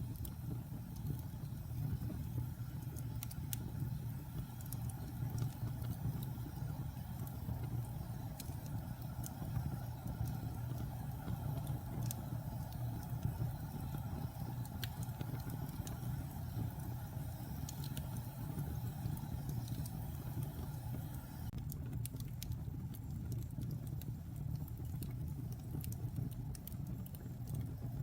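Wood fire burning in a fireplace: a steady low rumble of flames with scattered sharp crackles and pops, the crackles coming more often in the last few seconds.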